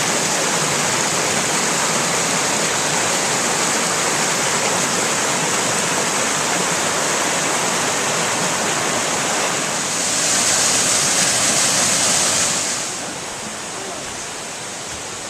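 Steady, loud rush of water, louder between about ten and thirteen seconds in, then settling to a lower level near the end.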